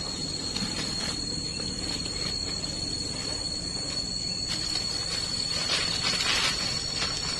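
Steady high-pitched drone of forest insects over a constant hiss, with a louder rustling, scraping noise swelling briefly near the end.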